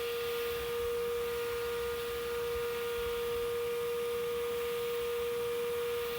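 Bee vacuum, a modified shop vac, running steadily as it sucks up a swarm: a constant motor whine over an even rush of airflow hiss.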